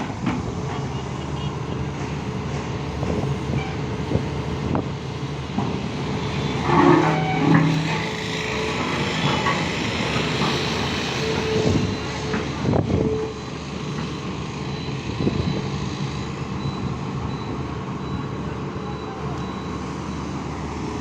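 Excavator's diesel engine running steadily, with a few sharp knocks, the clearest about 13 seconds in.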